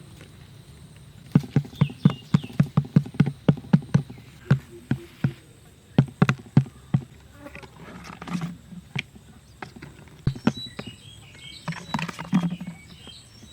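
A quick run of sharp taps, about four to five a second, then a few scattered single taps, with brief rustling scrapes later on.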